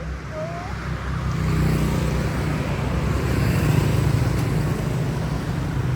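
Motor vehicle engine running close by, growing louder about a second and a half in and then holding steady.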